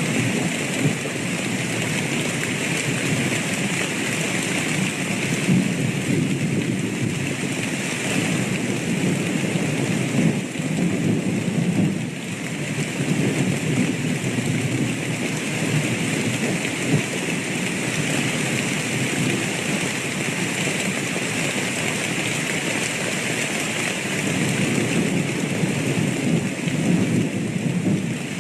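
Steady heavy rain with thunder rumbling low and swelling and fading over several seconds at a time.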